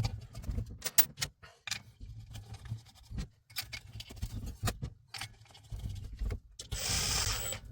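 Small metal parts of a diesel heater clicking and clinking as it is put back together by hand, with a short hiss near the end.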